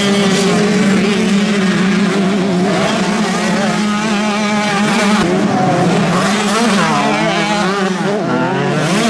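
Several motocross bikes racing, their engines revving up and down with many overlapping pitches rising and falling, over a steady low hum.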